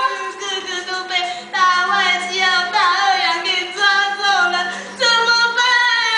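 Women singing a song in high voices, the notes gliding and changing every half second or so.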